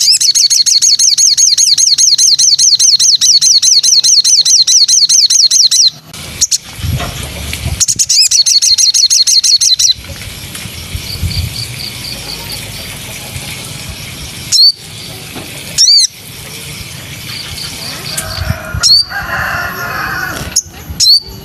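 Songbird singing a loud, fast trill of evenly repeated high notes, several a second, for about six seconds and again briefly a couple of seconds later. After that it gives softer warbling song broken by a few sharp rising whistles.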